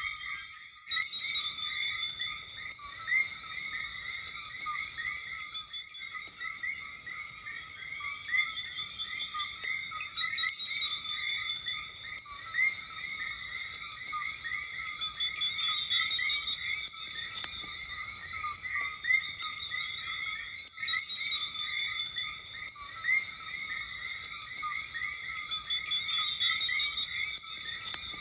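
A dense chorus of coquí frogs: many short, overlapping calls, together with higher rapid trilling notes and sharp clicks now and then.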